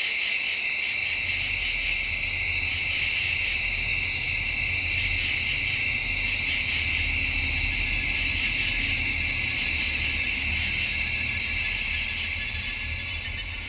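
Crickets chirping in a steady high trill with rhythmic pulses, joined about a second in by a low drone.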